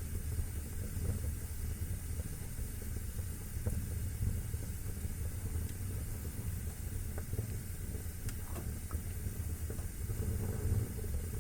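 Wood fire burning in a fireplace: a steady low rumble and hiss of the flames with scattered small crackles and pops.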